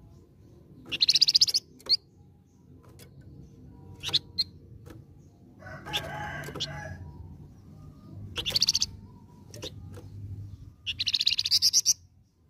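Scarlet minivet (flamboyan) calling: three bursts of fast, high, repeated chattering notes, with a few single sharp notes between them. About six seconds in there is a lower, rougher call lasting under a second.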